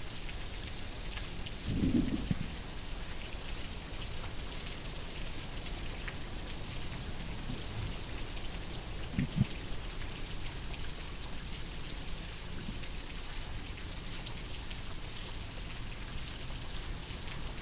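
Steady rain pattering, with two brief low thuds or rumbles, one about two seconds in and one about nine seconds in.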